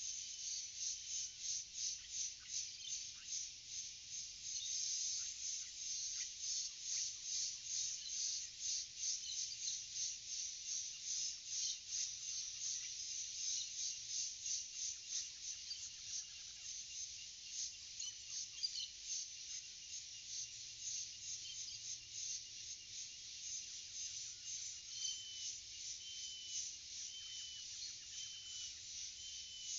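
Forest insect chorus: a dense, high-pitched pulsing buzz at about three pulses a second. Near the end a bird repeats a short high call about once a second.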